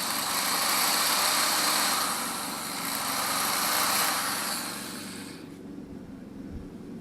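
A high-speed rotary grinding tool runs steadily with a high whine, deburring the sharp edges of an engine block. It eases briefly about halfway, then stops about five and a half seconds in.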